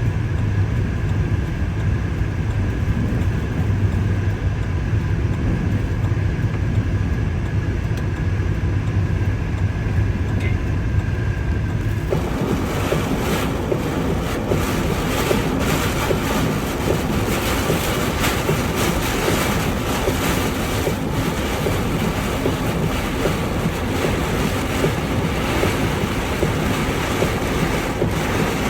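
A steady low hum, then about twelve seconds in a sudden switch to loud, gusting typhoon wind blasting the microphone.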